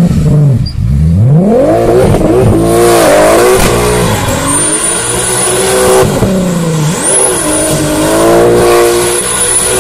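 Mk2 Volkswagen Golf's engine revving up and down over and over as the car slides in circles on wet tarmac, with a thin high whine coming and going from about halfway in.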